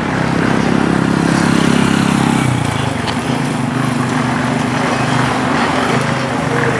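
An engine running at a steady speed, louder for the first two and a half seconds and then continuing a little quieter.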